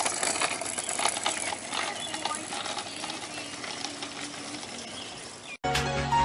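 A run of small irregular clicks and rattles over a noisy background, cut off suddenly near the end by music.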